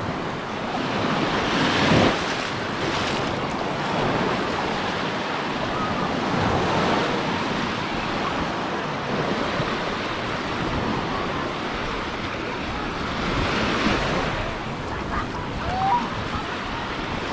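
Lake Michigan waves breaking and washing in the shallows, swelling and easing every few seconds, with wind buffeting the microphone.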